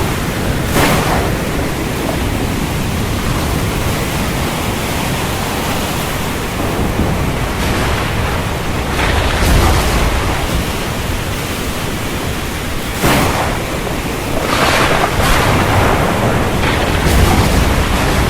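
Stormy wind and sea: a steady rushing noise of wind and surf, with short louder surges every few seconds, the sharpest about thirteen seconds in.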